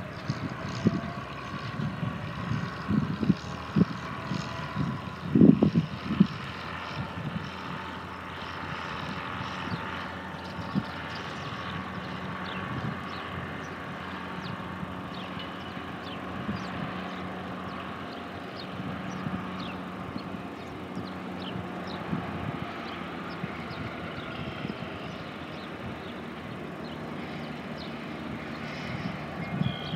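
A train running: a steady rumble with a faint held tone, with several knocks in the first six seconds and the sound growing louder near the end.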